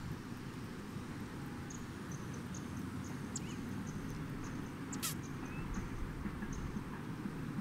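Lakeside ambience: a steady low rumble with a small bird's thin, high chirps repeating every half second or so, and one sharp click about five seconds in.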